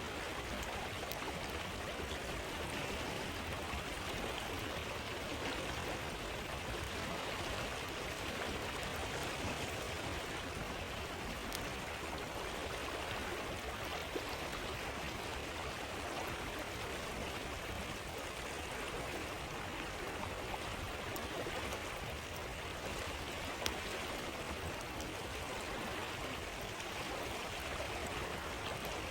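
Steady rush of a flowing river, with a few sharp crackles from a campfire now and then.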